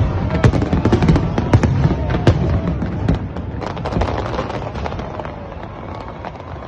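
Fireworks bursting in quick succession, a dense run of sharp bangs and crackles that thins out and fades over the last few seconds.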